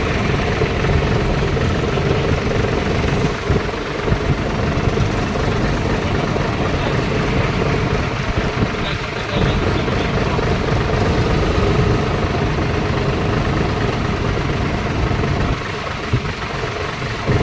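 Tractor engines running steadily, with a continuous low engine drone.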